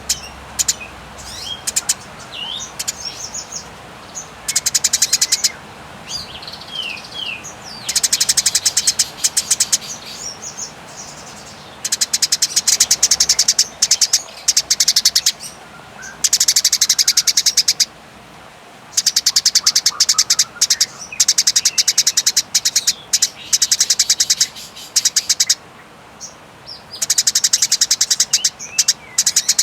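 Eurasian tree sparrows chattering in long, rapid runs of repeated chirps. The runs come in bursts of one to three seconds with short pauses between them, mixed with a few single short call notes.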